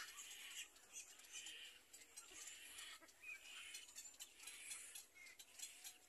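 Faint, irregular bird chirps and calls over quiet outdoor background, close to near silence.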